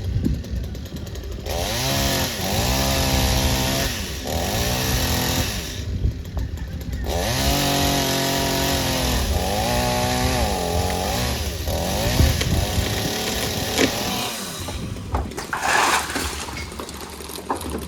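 Chainsaw running while cutting into a tree, its engine revving up and falling back again and again, then dropping away about fourteen seconds in.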